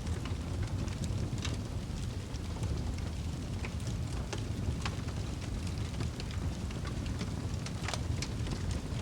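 Fireplace crackling: a steady low rumble of the fire with scattered sharp pops and crackles, a few of them louder, about halfway through and near the end.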